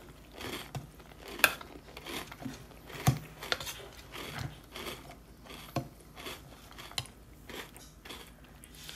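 Close-up chewing of crunchy cereal in milk with the mouth closed: irregular crunching clicks, with a few sharper cracks about one and a half, three and six seconds in.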